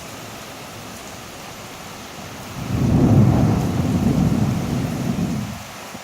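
Steady heavy rain hissing; about two and a half seconds in, a loud low rumble of thunder rises, peaks, and dies away after about three seconds.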